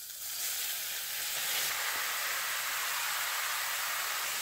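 Grated carrots sizzling in hot desi ghee in a kadhai. The hiss swells over about the first second as they go in from the plate, then holds steady.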